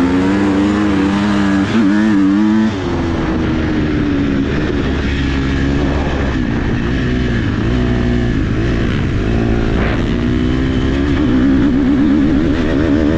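Single-cylinder four-stroke motocross bike engine, a KTM 250 SX-F, being ridden with the throttle rolling on and off. The pitch drops sharply about three seconds in and climbs again near the end.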